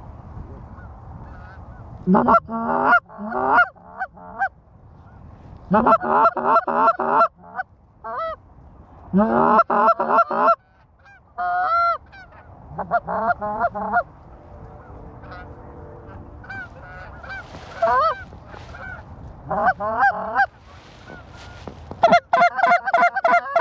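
Canada goose honks and clucks, coming in quick bursts of several notes a few seconds apart, with fainter honking in between, over a low wind rumble.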